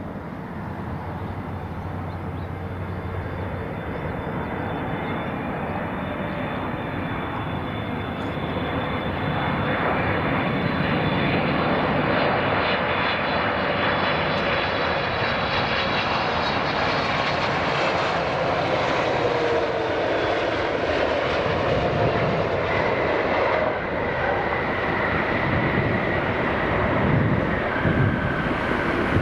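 Jet airliner engines passing close by. The noise builds over the first ten seconds or so and then stays loud, with a high engine whine and a tone that slides down in pitch as the aircraft goes past.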